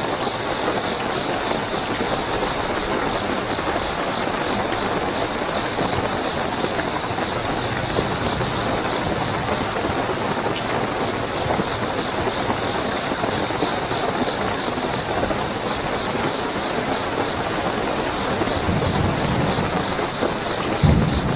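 Steady heavy rainfall with crickets chirping in a continuous high trill. A brief low thump near the end.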